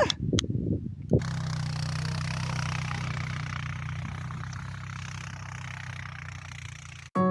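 An engine idling steadily, starting about a second in and stopping abruptly near the end; a few short irregular noises come before it.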